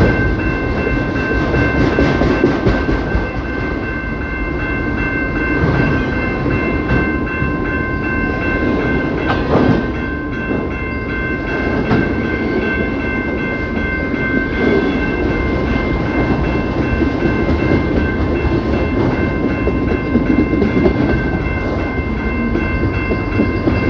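Canadian Pacific Kansas City (CPKC) train rolling past, its cars rumbling and clattering on the rails, with a steady high whine held throughout.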